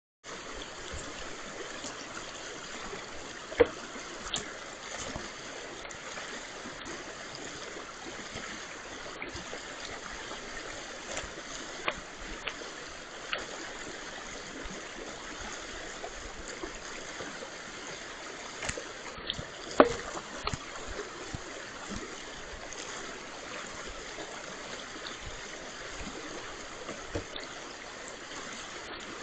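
A brook running steadily, a constant rushing of water, with a few sharp taps or knocks; the two loudest come about four seconds and about twenty seconds in.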